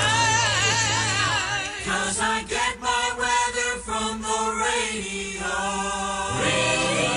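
Sung radio station jingle by a vocal group: voices with vibrato, then a run of short clipped chords in the middle, and held singing again near the end.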